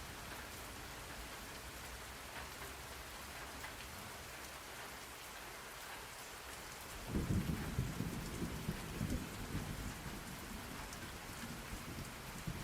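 Steady rain falling, with a roll of thunder that breaks in a little past halfway, rumbles for about three seconds and then eases off.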